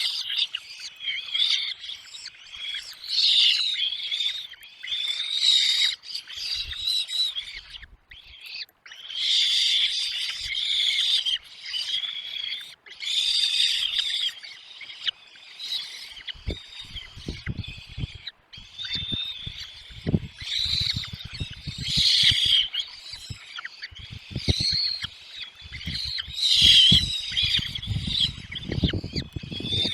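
Nestling birds begging for food, a shrill high cheeping in bursts of a second or two with brief gaps. From about halfway, low thumps and bumps come in among the calls.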